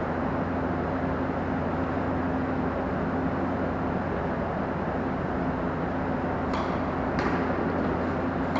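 Steady, machine-like rumble with a constant low hum, and a few faint short ticks near the end.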